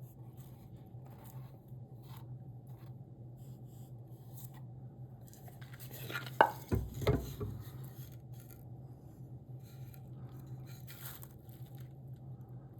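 Light scraping and tapping of hand tools working wood, with a louder cluster of knocks and scrapes about six seconds in, over a steady low hum.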